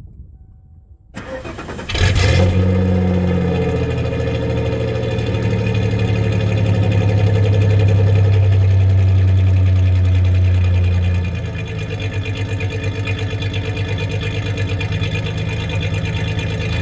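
1993 Ford Ranger's 3.0 V6 cranking briefly and starting about a second in, then running steadily, a little quieter from about ten seconds in. The engine has a misfiring cylinder.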